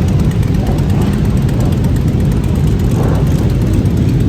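Motorcycle riding noise: a steady low rumble of wind buffeting the microphone over the motorcycle engine running.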